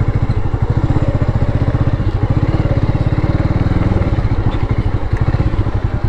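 A vehicle's engine running at low speed with a steady, even pulsing beat. Its pitch rises slightly in the middle and eases off about four seconds in, as when slowing to pull over.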